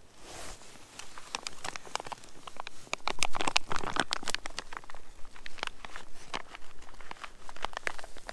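Irregular crunching and crinkling clicks, densest and loudest from about three to four and a half seconds in.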